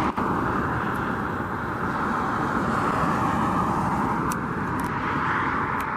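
Strong gusting wind buffeting the microphone, a steady rushing noise with no pitched sound in it.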